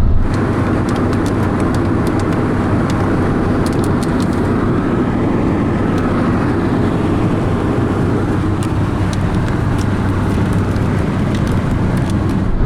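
Steady road and engine noise of a moving car, with scattered faint sharp ticks throughout.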